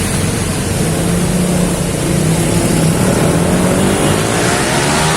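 Heavy rain pouring steadily while a motor vehicle's engine passes close by, its pitch rising as it accelerates near the end.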